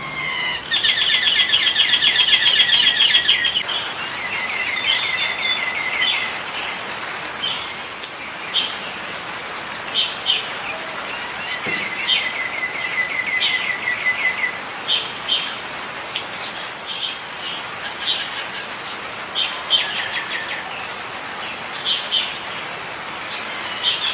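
Nias hill myna calling: a loud, rapid run of ringing notes about a second in, lasting some three seconds, then shorter runs and single whistled notes at intervals, over a steady hiss.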